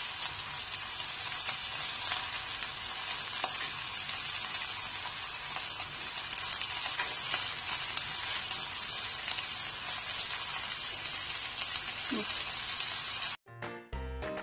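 Bacon-wrapped rice rolls frying in a pan: a steady sizzle of hot fat with many small crackles. About a second before the end the sizzle cuts off and a bright jingle starts.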